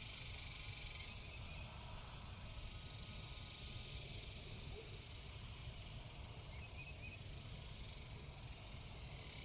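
Faint, steady outdoor background noise: a low rumble under a high hiss, with a few faint high chirps about two-thirds of the way through.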